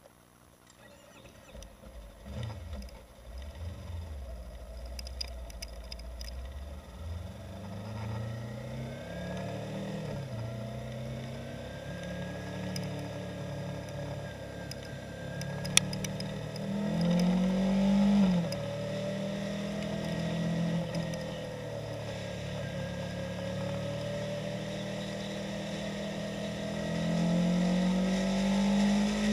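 2015 Yamaha YZF-R3's 321 cc parallel-twin engine pulling away about two seconds in and then accelerating through the gears, its pitch climbing and dropping with each shift and climbing again near the end. A single sharp click about halfway through.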